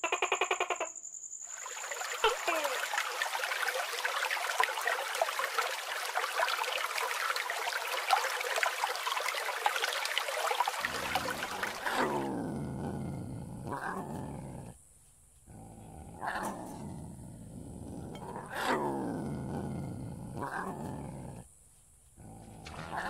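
Lion roaring and grunting: a series of deep calls, each falling in pitch, about every two seconds, starting about halfway through. Before that comes a dense crackling hiss lasting about ten seconds.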